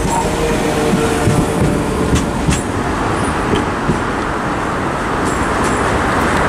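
A Class 172 Turbostar diesel multiple unit pulls away. Its last carriage runs past with its engine and wheels rumbling and a couple of sharp clicks over the rail joints about two seconds in, and the train noise gives way to a steady rushing background as it draws off.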